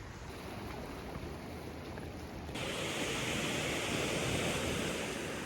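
Sea surf washing in, with wind on the microphone; about halfway through it switches abruptly to louder, hissier surf.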